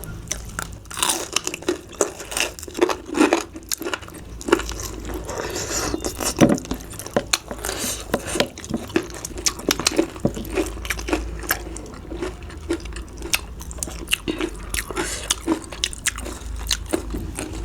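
Close-miked mukbang eating sounds: people chewing and biting bhakka rice cake with chicken gravy, with frequent irregular wet mouth clicks, several a second.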